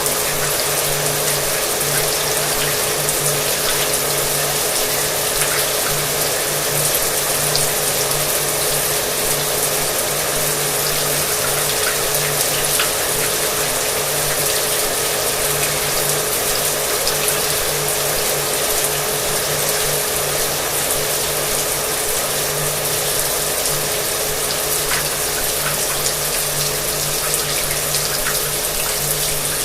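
Shower water running steadily with a hair dryer running alongside; the dryer's motor adds a steady low hum under the even rush of the water.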